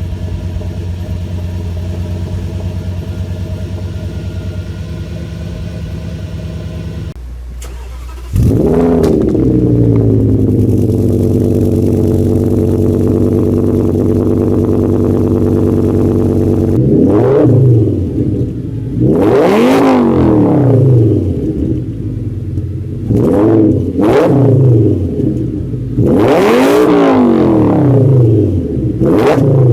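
Audi 5.2-litre V10 FSI engine idling steadily, then, after a break, starting with a sharp flare that settles into a high idle. From about halfway it gives several quick throttle blips, each revving up and dropping back to idle.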